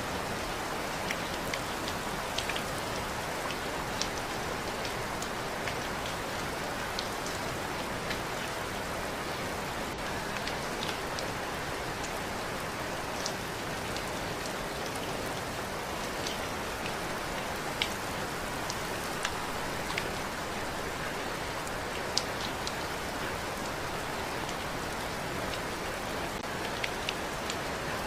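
Steady rain falling, with individual drops ticking sharply on a surface every second or so.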